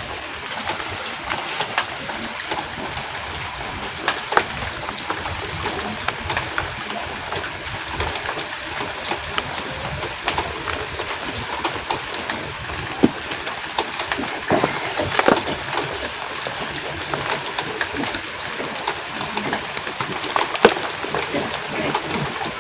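Rectangular blocks of reformed homemade gym chalk being crushed, giving irregular dry crunches and crackles, a few louder ones, over a steady hiss of rain.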